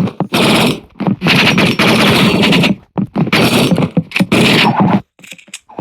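Loud bursts of harsh, crackling noise, several in a row with short gaps between them, the longest gap near the end.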